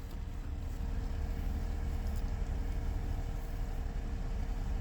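Steady low mechanical rumble with a faint constant hum above it.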